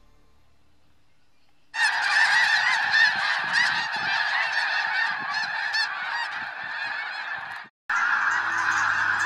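A flock of geese honking, many birds calling over one another. The calling starts abruptly about two seconds in, breaks off for a split second near the end, then carries on.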